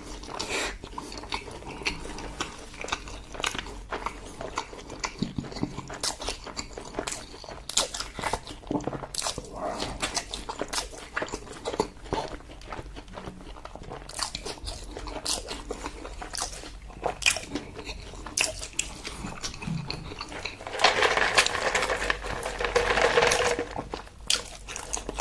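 Close-miked eating sounds: chewing and biting with many short wet clicks and smacks, growing louder and denser for a few seconds near the end.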